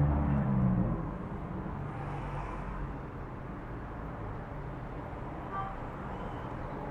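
A low, held dog howl ends about a second in, followed by a steady low rumble like distant road traffic.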